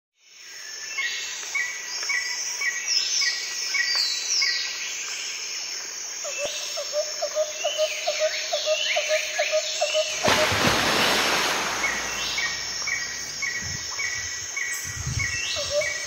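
Several birds singing and calling: repeated short chirps, rising and falling whistles, and in the middle a run of quick low notes at about four a second. About ten seconds in, a loud rushing noise comes in under the birdsong.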